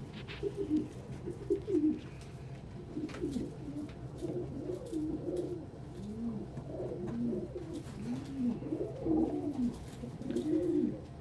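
Several domestic pigeons cooing, their low rising-and-falling coos overlapping one another.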